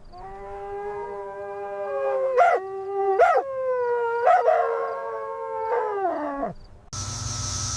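A canine howling: one long drawn-out call of about six seconds, broken by three short upward yelps in the middle, falling in pitch as it ends.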